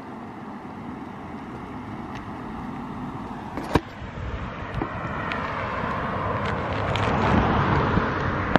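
A car approaching on the road, its tyre and road noise growing steadily louder, with wind on the microphone. A single sharp knock sounds about four seconds in.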